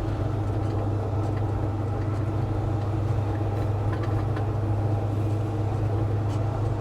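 1966 Chevy C10's 383 stroker small-block V8 running at a steady cruise, a constant low drone with road noise, heard from inside the cab.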